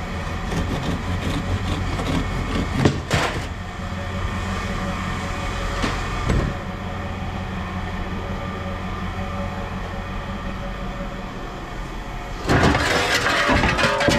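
Steady low engine drone with a few sharp knocks of scrap being handled, then a louder rattling clatter near the end as scrap is moved.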